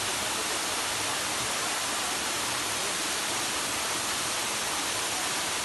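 Waterfall: a steady, even hiss of falling water that does not change.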